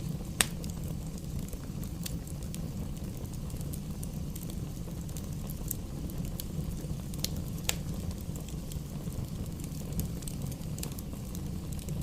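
Campfire burning with a steady low rumble and scattered crackles and pops; a sharp pop comes about half a second in and another near the middle.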